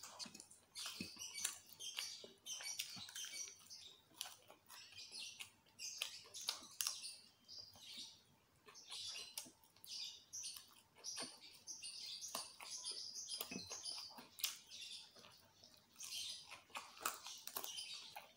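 Chewing and lip-smacking while eating fried chicken by hand, a steady run of short clicks and smacks.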